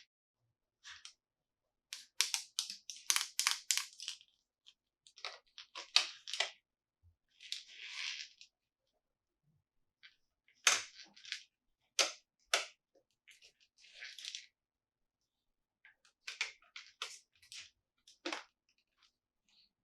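Plastic toy packaging being handled close to the microphone: groups of crackles and sharp clicks, with a short rustle about eight seconds in.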